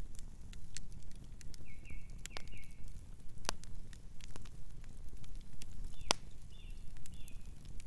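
Wood fire burning with a steady low rumble and irregular crackles and sharp pops, the loudest about three and a half and six seconds in. A bird gives a few short chirps about two seconds in and again near the end.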